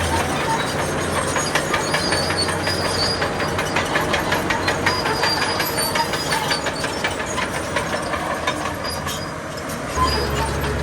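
Crawler bulldozer working: its diesel engine runs under a quick, even clatter of clanking steel track links, and its deep low drone fades just after the start and comes back near the end.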